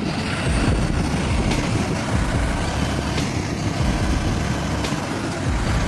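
A truck running, a steady engine rumble mixed with road noise, with a few faint clicks.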